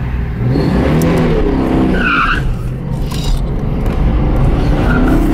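1982 Toyota Celica Supra's straight-six engine revving up and down as the car is driven hard off the start line and through a cone course, heard from inside the cabin. A short tyre squeal comes about two seconds in, as the car turns through the cones.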